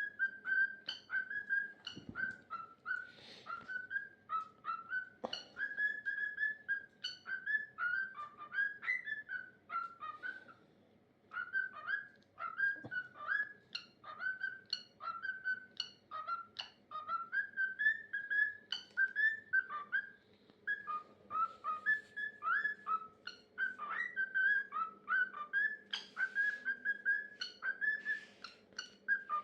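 Cockatiel singing its own whistled song: a quick string of short, warbling whistle notes that bend up and down, with a brief pause partway through.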